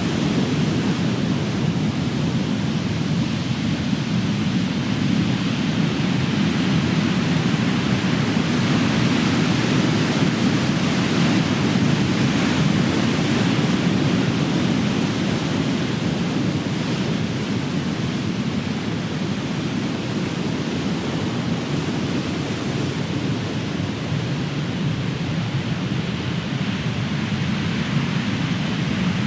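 Ocean surf: the continuous rumble and wash of large waves breaking on the shore, swelling and easing slowly.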